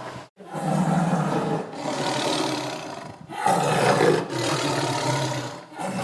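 Tiger roaring, several calls in a row of a second or so each, after a brief silent break just after the start.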